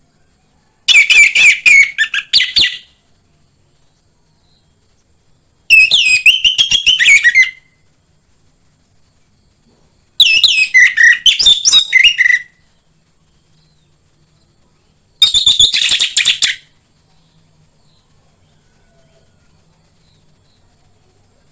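Orange-headed thrush (anis merah) singing: four loud phrases of rapid, varied whistled notes, each lasting about two seconds, with pauses of about three seconds between them. A faint steady high hiss runs underneath.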